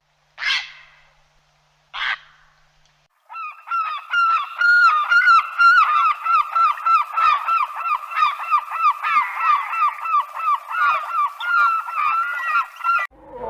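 Two short bird calls, then from about three seconds in a flock of birds calling rapidly, many short falling notes overlapping one another, cutting off abruptly near the end.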